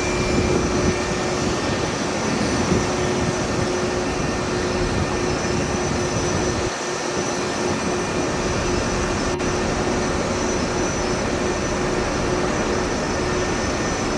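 Boeing 787-9 jet engines running, a steady rumble with a constant low whine and fainter high whines over it.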